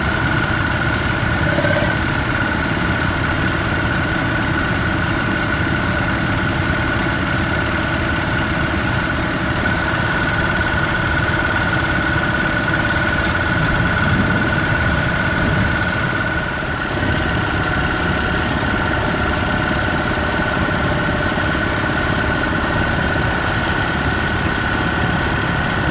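Tractor engine running steadily, with a constant high whine over the engine note.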